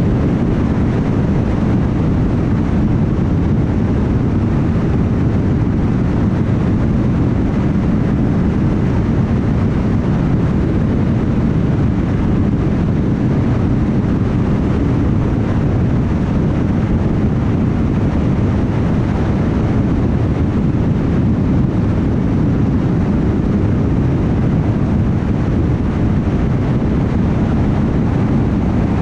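Steady road noise of a car driving at highway speed: an even low rumble of tyres on the road surface and wind, with no distinct events.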